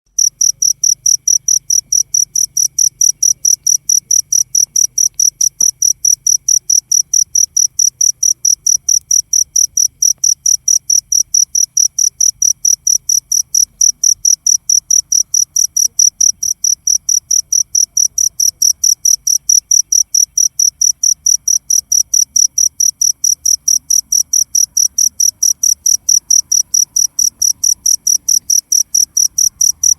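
A cricket chirping loudly and steadily: a high, pure-toned chirp repeated about three times a second without a break.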